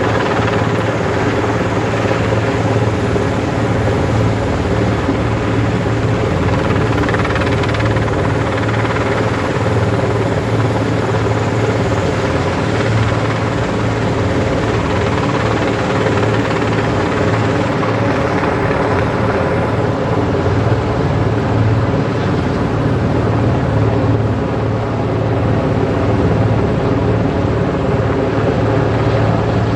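Helicopter running steadily: a loud, even drone with a strong low hum and a stack of steady tones above it.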